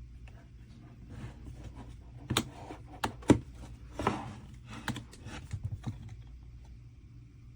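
A run of irregular sharp clicks and knocks from an object being handled, the loudest a few seconds in, over a faint steady low hum.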